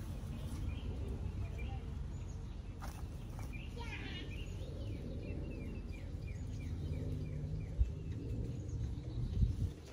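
A small bird chirping over and over, short falling chirps about three a second, over a steady low outdoor rumble.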